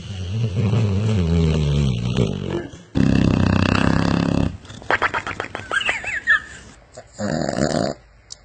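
A dog snoring: a long, low snore with a wavering pitch, then a louder, rougher snore about three seconds in. After it come some clicking and squeaky sounds, and a short snore near the end.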